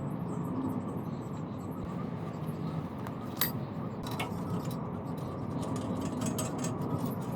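Light metallic clinks and ticks of hand tools and metal parts being handled, a few sharp ones, over a steady low hum of background noise.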